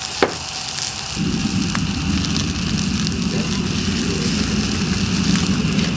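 Wood fire burning with scattered crackles and one sharp snap just after the start; about a second in, a low rushing noise sets in and holds.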